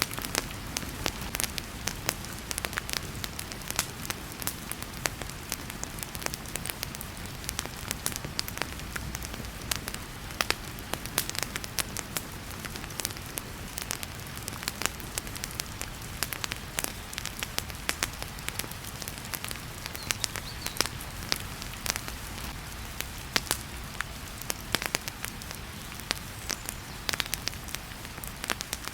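Fireplace crackling and popping with frequent sharp snaps, over a steady hiss of heavy rain.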